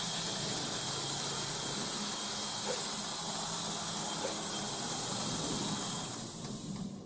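Touchless automatic car wash machine running with a steady hiss of spray or air over a faint low hum, dying away about six seconds in.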